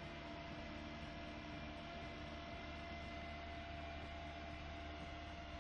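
A steady hum: a constant low drone with a few unchanging higher tones over an even hiss.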